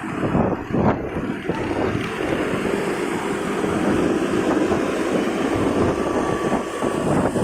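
Wind buffeting the microphone of a moving motorcycle, with the motorcycle's engine and surrounding road traffic running beneath it.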